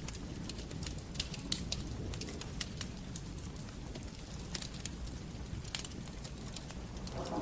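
Wood fire burning in a fireplace: a steady low rumble of the flames with sharp, irregular crackles and pops from the burning wood.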